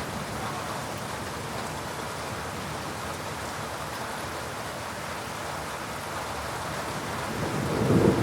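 Heavy rain falling steadily during a thunderstorm. Near the end a low thunder rumble starts to build and grows louder.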